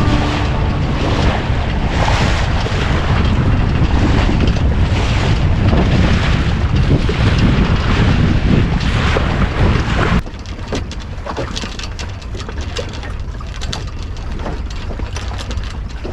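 Wind buffeting the microphone over the rush of water along a small sailboat's hull while under sail. The noise drops suddenly about ten seconds in and runs on quieter.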